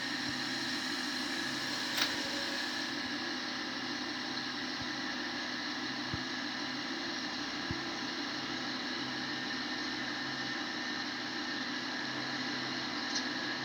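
Steady background hiss and hum with a single sharp click about two seconds in; no clear bird calls stand out.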